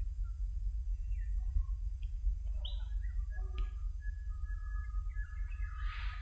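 Small birds chirping and whistling in short calls, with a few longer held whistled notes in the second half, over a steady low rumble.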